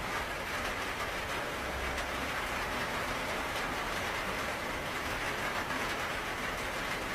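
Steady rainfall: an even hiss with faint, scattered drop ticks, unchanging throughout.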